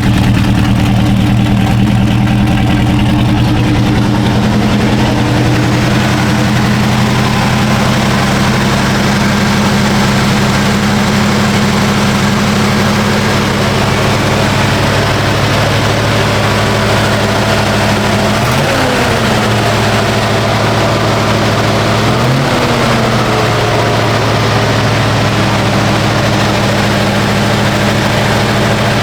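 Chevrolet 350 small-block V8 idling steadily, with two short revs of the throttle about two-thirds of the way through, each rising and falling back to idle.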